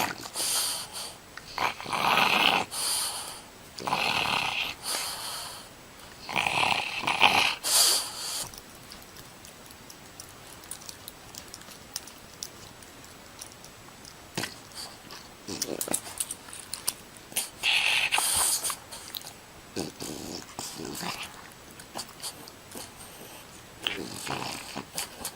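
A dog making short vocal sounds, a series of brief bursts with pauses between.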